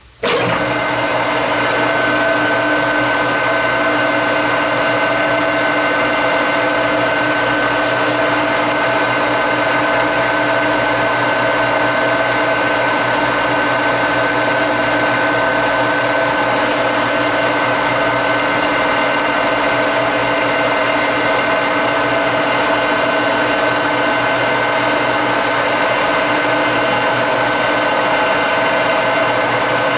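Metal lathe switched on, its motor and spindle drive coming up to speed at once and then running steadily, with a steady hum of several tones.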